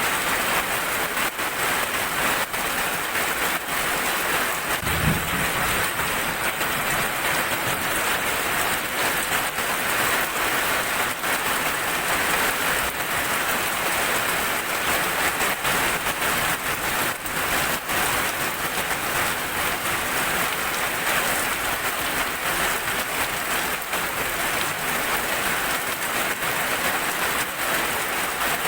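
Heavy rain falling steadily, with close drops ticking on a surface, and a brief low rumble about five seconds in.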